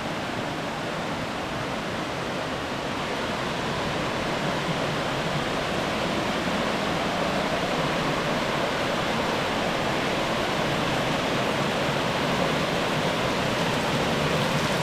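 Waterfall rushing steadily, a little louder after the first few seconds.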